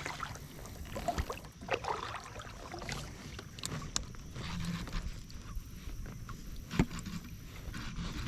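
Knocks, clicks and light splashing at a kayak while a hooked bass is reeled in and landed, with one sharp knock, the loudest, near the end.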